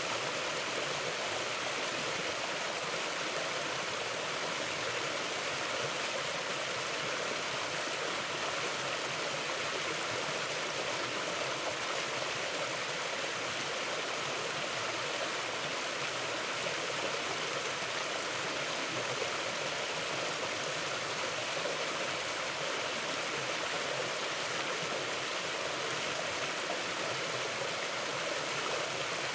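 Mountain stream flowing steadily: an even, unbroken rush of water with no sudden splashes.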